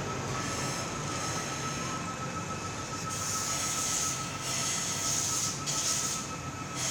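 Steady rumbling and hissing of a moving vehicle with a constant high-pitched whine. A brighter high hiss swells and fades several times in the second half.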